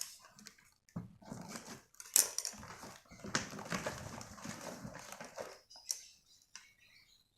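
Black wire bird cage being handled, its metal wires clinking and rattling in irregular bursts with a few sharp clicks.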